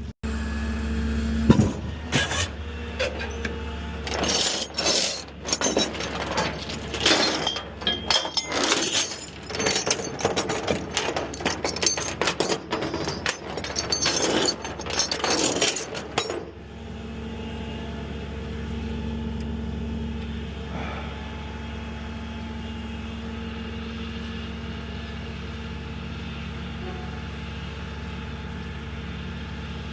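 Loud irregular clatter and knocks for about sixteen seconds, with one sharp bang about a second and a half in. After that a truck engine runs steadily.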